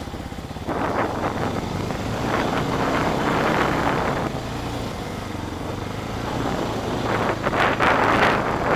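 Yamaha Raptor 125 ATV's small four-stroke single-cylinder engine running, with gusts of wind buffeting the microphone, strongest near the end.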